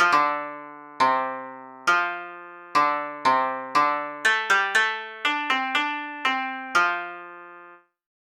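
A short melody on a piano-like keyboard: about fourteen notes and chords struck one after another, each left to ring and fade, the last dying away near the end.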